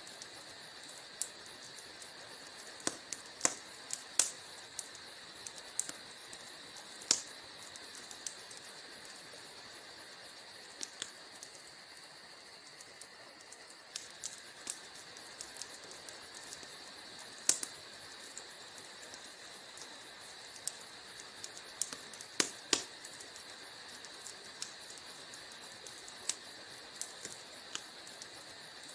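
Wood fire burning in a fireplace, crackling: irregular sharp pops and snaps over a steady hiss, with louder pops near the start, about a third of the way in and around two thirds of the way through.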